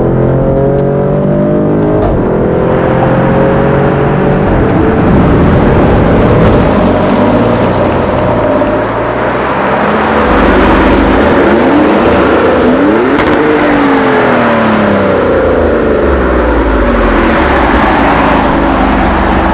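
Maserati Grecale Trofeo's twin-turbo V6 running loud through its exhaust, the engine note rising and falling in pitch as it revs and pulls, with a brief dip in loudness about nine seconds in.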